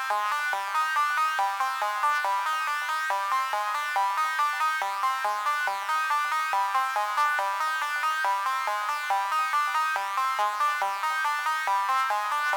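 u-he Podolski software synthesizer playing a factory preset: a fast run of short, plucked-sounding notes, about four a second, repeating as a sequenced arpeggio pattern with no bass underneath.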